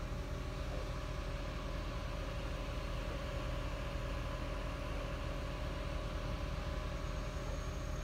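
A motor running steadily: a low hum with a faint steady whine above it.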